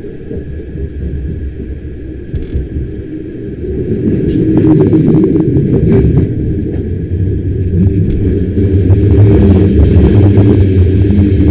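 Bernina Express train running along the track: a steady low rumble of wheels on rails that grows louder about four seconds in, with scattered short clicks.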